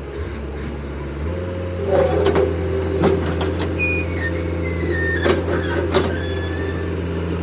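A steady low mechanical hum from a running motor or engine, which steps up and gets louder about a second in, with a few sharp metallic knocks over it.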